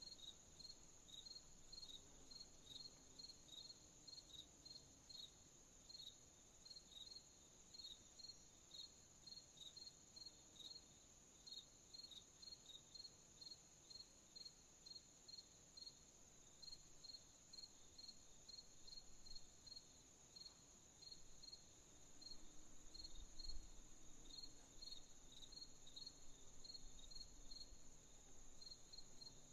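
Crickets chirping at night, faint: evenly repeated short chirps, about two to three a second, over a continuous high insect trill. A brief low rumble comes about three-quarters of the way through.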